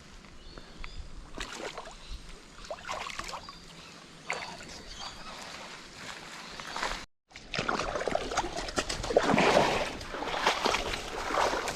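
Water sloshing and splashing in a creek, fairly quiet at first, then louder and busier after a brief drop-out about seven seconds in.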